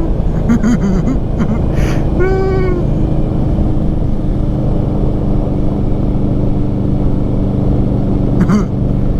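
Indian Scout Bobber's V-twin engine through Vance & Hines slash-cut mufflers, riding along with road and wind rush; the exhaust note settles to a steady cruising pitch about three seconds in.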